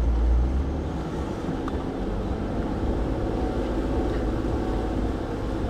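Jeep Willys engine running steadily under load as it crawls up a rough off-road trail, heard from inside the vehicle, with a deep rumble that is strongest in the first second.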